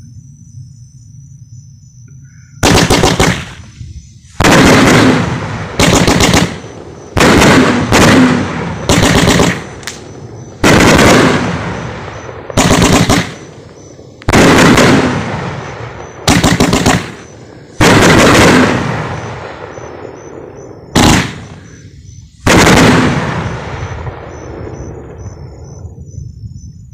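A 500-gram, 30-shot Pyro Planet "Solid Gold" firework cake firing: a string of loud bangs, each followed by a fading rumble, coming every one to two seconds from about three seconds in until a few seconds before the end. Crickets chirp steadily and faintly underneath.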